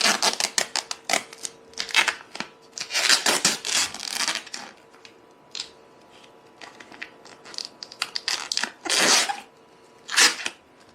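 Protective plastic stickers and film being peeled off a stainless steel espresso machine: a run of crackling rips and sharp clicks, busiest in the first four seconds, then two more rips near the end.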